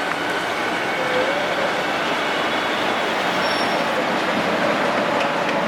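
Passenger express hauled by a WAM-4 electric locomotive rolling slowly past, a steady noise of wheels and coaches on the track with faint wheel squeal, as the train slows to a halt.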